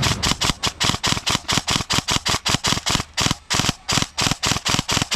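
Airsoft gun firing a rapid, steady string of sharp shots, about six or seven a second, with brief pauses near the middle.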